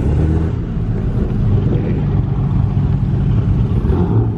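A car engine running at a steady idle close by, with a low, even note.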